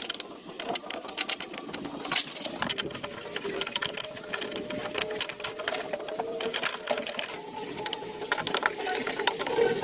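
Rapid, irregular mechanical clicking and tapping.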